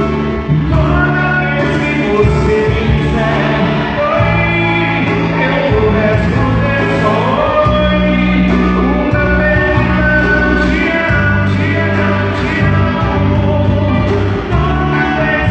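Live band playing a song with a singer over a steady bass line.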